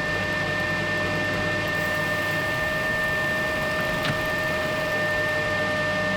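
Metal lathe machining a high-tensile steel barbell shaft, running with a steady whine over a hissing noise. A brief tick comes about four seconds in.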